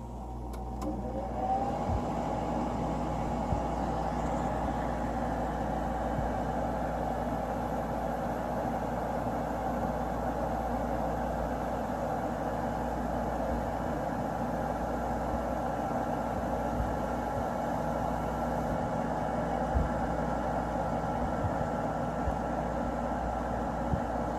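Sharp 8500 BTU window air conditioner starting up: its fan motor spins up with a rising whine over the first second or two, then runs steadily with a whir and hum.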